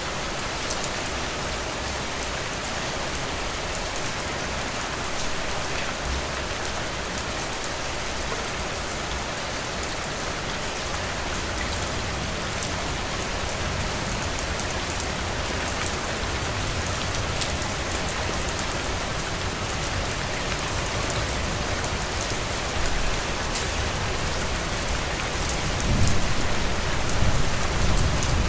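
Heavy rain falling steadily on a roof: an even hiss full of fine drop taps. A low rumble swells near the end.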